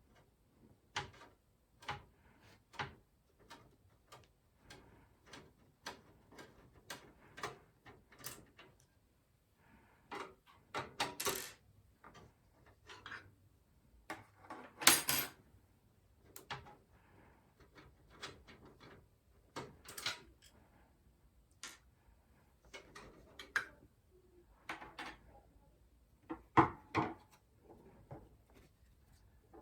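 Handling of PC hardware while fitting the graphics card: an irregular run of short clicks, taps and knocks of metal and plastic parts, about one a second, with a few louder knocks.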